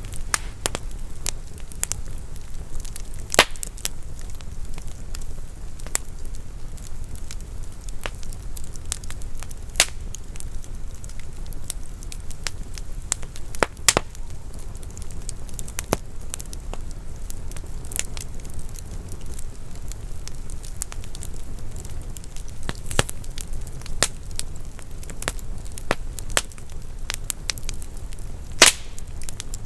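Wood fire burning in a fireplace: a steady low rumble of flames with scattered sharp crackles and pops, a few louder pops standing out.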